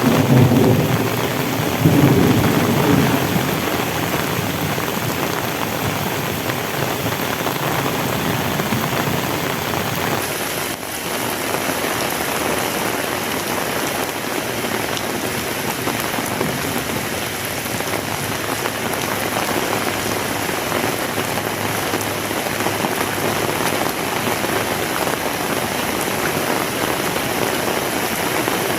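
Heavy rain falling steadily and hard. There are two louder low rumbles within the first few seconds.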